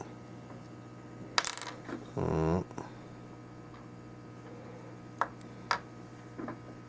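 Small metal odometer parts clicking and clinking against each other and the bench, with a sharp click about a second and a half in and two more about five seconds in, over a steady low electrical hum. A brief murmur of voice comes a little after two seconds.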